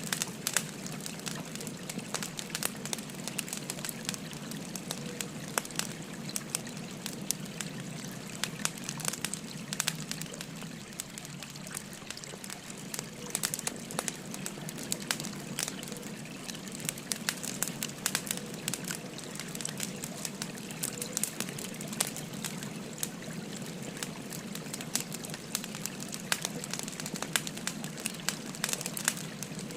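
Wood fire crackling, with frequent sharp irregular pops and snaps, over the steady babble of a flowing river.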